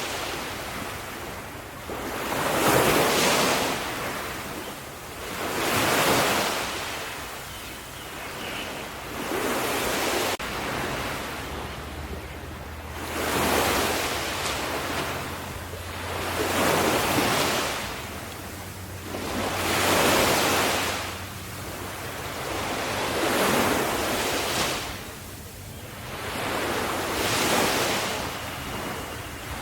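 Ocean surf: waves breaking and washing back, each surge swelling and fading away about every three to four seconds.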